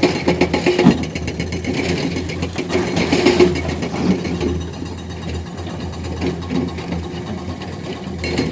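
Heavy diesel engine running with a rapid, even clatter, swelling briefly about a second in and again around three seconds in.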